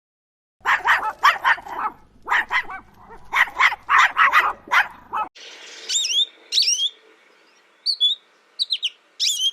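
A dog barking in a rapid run of about a dozen barks. After an abrupt cut about five seconds in, a small bird gives short, high, down-slurred chirps.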